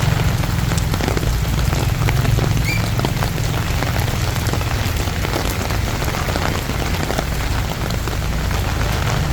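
Steady heavy rain falling on a street, with many individual drops ticking close by over a low rumble.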